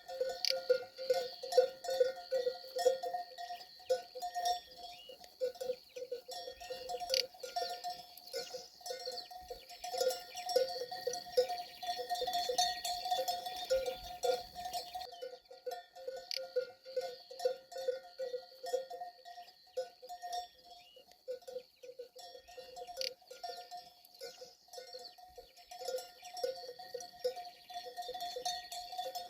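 Livestock bells on a grazing flock clanking irregularly and continuously, many bells overlapping.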